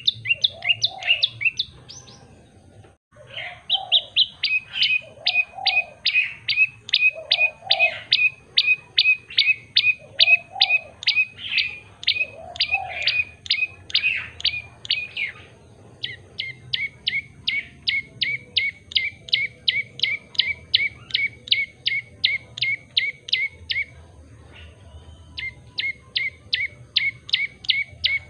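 Common tailorbird singing: long runs of sharp, rapidly repeated chirps, about three a second, broken by short pauses about 3 s in and near 24 s in. A few lower calls sound underneath in the first half.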